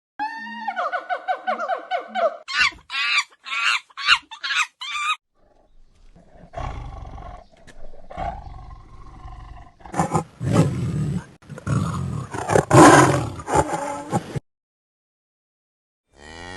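Animal calls: a quick run of short, pitched, repeated calls for about five seconds, then after a brief pause a longer stretch of louder, rough, noisy calls that stops abruptly.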